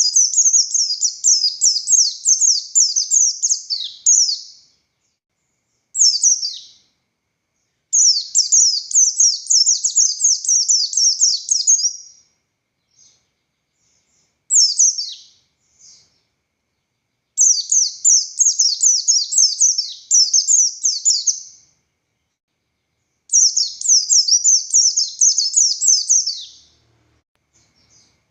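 Buxtoni white-eye (pleci) singing its full, energetic song: long high-pitched twittering phrases of rapid downslurred notes, each lasting about four seconds, with short single calls in the pauses between them.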